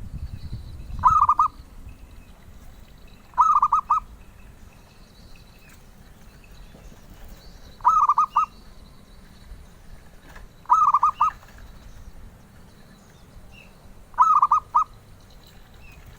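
Zebra dove (perkutut) cooing: five short phrases of quick rolling notes, each about half a second long and a few seconds apart.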